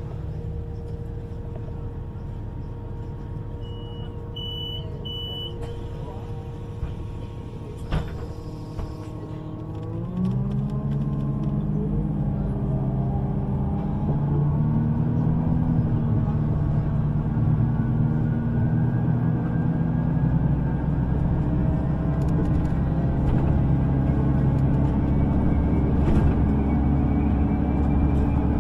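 Electric U-Bahn train standing with a steady electrical hum, a few short high beeps and a single knock, then its traction motors whine up in several rising tones as it pulls away and gathers speed.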